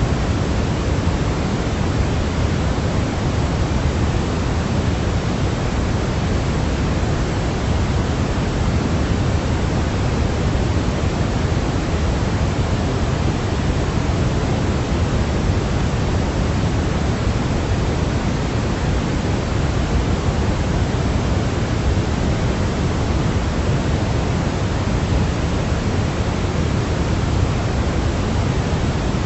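Steady, unchanging hiss of a white-noise sleep track, heavier in the bass than the treble, like pink noise.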